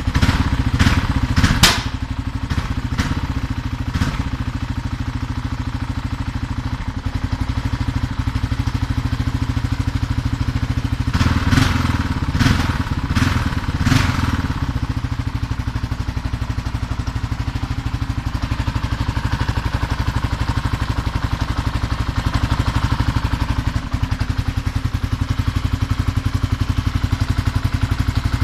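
Kawasaki KLR600's single-cylinder four-stroke engine idling after a cold start, with a steady even beat. The throttle is blipped a few times near the start and again about halfway through.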